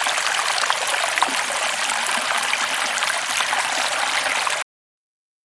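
A small stream babbling and trickling over stones, cutting off abruptly about four and a half seconds in.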